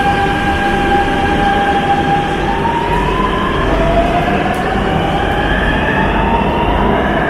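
Nanjing Metro electric train running loud and steady, with a rumble and a whine from its traction motors that rises in pitch about halfway through, as when the train pulls away and gathers speed.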